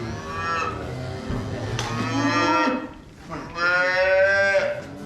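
Cattle mooing: three drawn-out calls, the last the loudest and longest.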